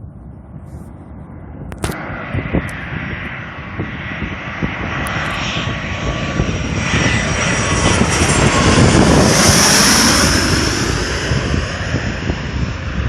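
Embraer 100 private jet's engines on landing approach, passing overhead: a jet whine and roar that grows louder to a peak about ten seconds in, then drops in pitch as the aircraft passes and moves away.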